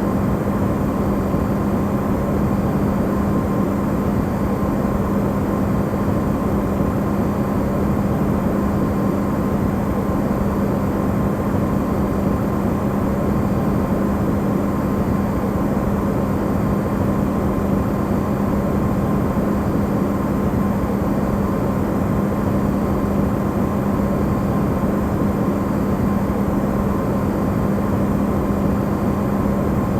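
Electrolux refrigerator running, recorded amplified: a steady, unchanging hum with one strong low tone and a fainter higher one over an even rushing noise.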